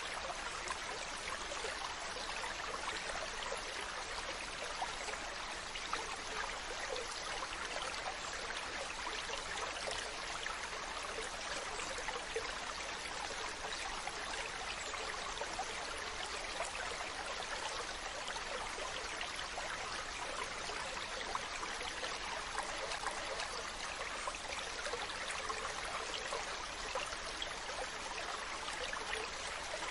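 Steady running water, an even rushing hiss with a fine crackle that does not change or pause.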